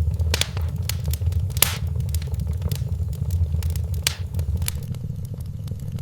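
Wood fire in a fireplace crackling, with frequent small snaps and a few louder pops, over a steady low rumble.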